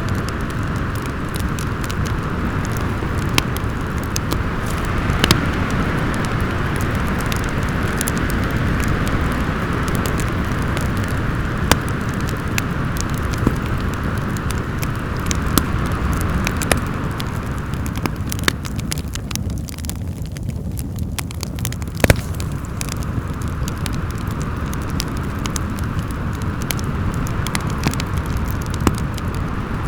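Fireplace crackling with scattered sharp pops, the loudest about two-thirds of the way through, over a steady rush of howling storm wind that eases for a few seconds just before it.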